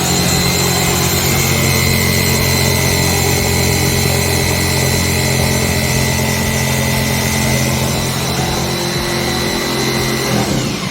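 An electric woodworking power tool's motor running loudly at a steady speed, with a steady high whine over a low hum, stopping shortly before the end.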